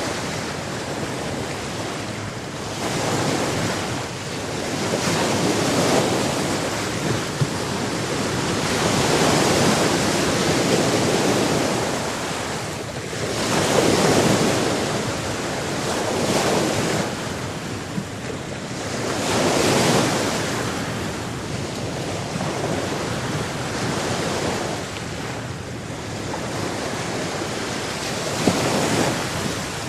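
Ocean waves breaking and washing ashore, the surf swelling every few seconds, with wind.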